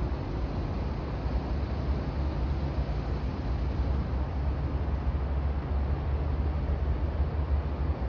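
Steady low engine rumble with a hiss of noise over it, from the cement tug-barge running as it sails out of the harbour.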